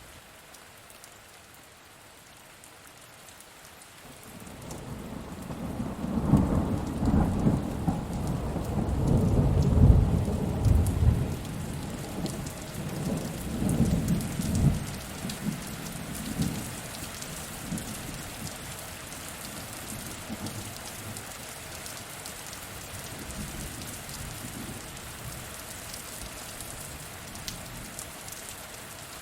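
Steady rain falling, with a long roll of thunder that builds about four seconds in, rumbles in several swells and fades out over the next ten seconds or so.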